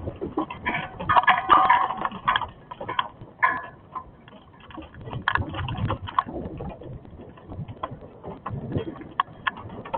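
Hailstones striking hard surfaces: a dense, irregular patter of sharp clicks and knocks.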